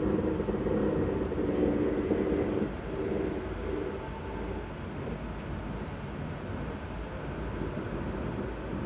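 Seibu 6000 series electric train running, heard from inside the passenger car: a steady low rumble with a tonal whine over it for the first few seconds that then fades, leaving the plain running noise.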